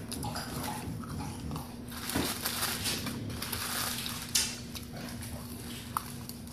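A man eating French fries fast, chewing noisily with his mouth open and full, with a sharp click about four and a half seconds in.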